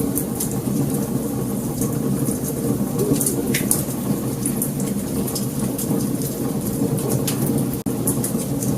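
Wood fire burning, with irregular sharp crackles and pops over a steady low rumble of flames. The sound cuts out for an instant near the end.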